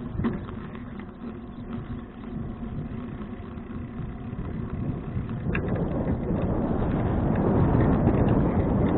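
Wind and road noise on a bicycle-mounted action camera while riding. The rush grows louder from about halfway through as the bike picks up speed.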